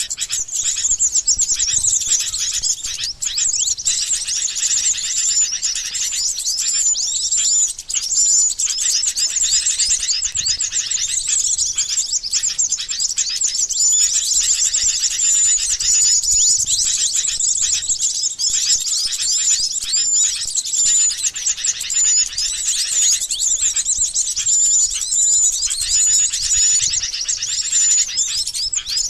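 Bird-lure recording of sooty-headed bulbuls (kutilang) giving their rapid chattering 'crecetan' calls, mixed with small songbirds. A dense, unbroken run of quick high chirps, with short high whistle notes recurring about once a second.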